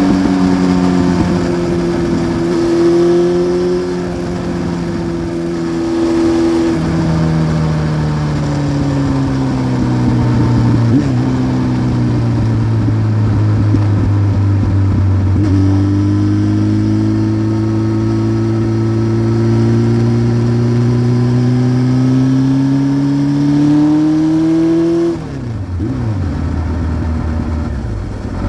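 1993 Honda CBR900RR Fireblade's inline-four engine through a Remus exhaust while riding. The revs step down and sag for several seconds, then jump and climb steadily in pitch for about ten seconds before the throttle closes and they drop sharply near the end.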